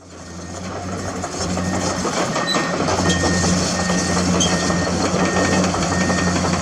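Komatsu excavator's diesel engine running steadily, fading in over the first second, with a warning alarm beeping about one and a half times a second from about two and a half seconds in.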